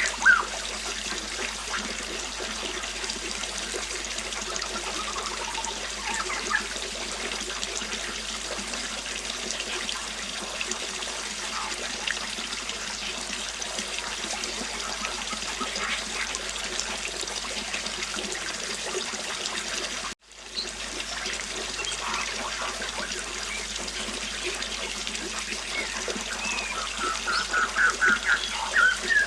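River water flowing steadily, with scattered bird chirps and a quick run of bird calls near the end. The sound cuts out briefly about twenty seconds in and fades back up.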